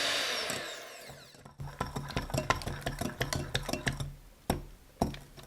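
Electric hand mixer's motor spinning down with a falling whine. Then comes irregular knocking and scraping of the beaters against the mixing bowl over a low hum.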